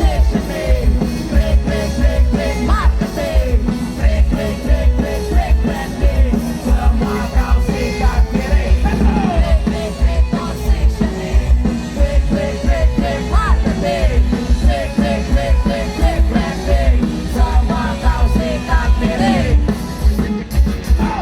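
Loud rock band music: heavy, steady drums and bass under a bending lead melody line.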